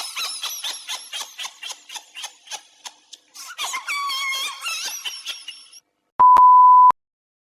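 A rapid run of high, squeaky chirps, about four or five a second, then a wavering high-pitched squeal, then a single short steady beep.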